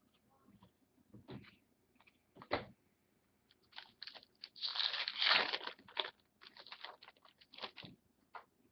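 Trading cards and their packaging being handled: a few separate taps, then several seconds of dense rustling and scraping, loudest about five seconds in.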